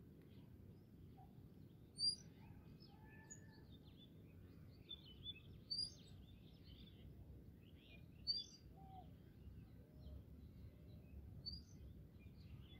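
Faint birds chirping over a low, steady background rumble, with a few sharper chirps spaced a few seconds apart.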